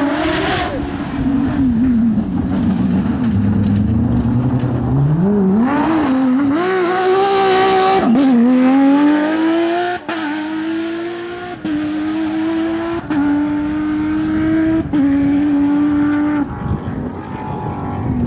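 Porsche 997 GT3's flat-six engine driven hard: the revs dip, then climb steeply, then rise through a run of quick upshifts about every second and a half, the pitch dropping sharply at each shift, before the throttle comes off near the end.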